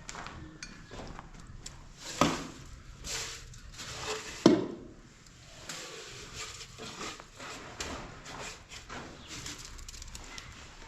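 Irregular knocks and clatter of hard objects, with the two sharpest bangs about two and four and a half seconds in.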